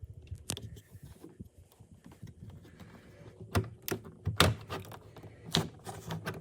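Scattered sharp clicks and knocks of plastic refrigerator parts being handled while the ice maker assembly is taken apart: about half a dozen separate knocks, most of them in the second half.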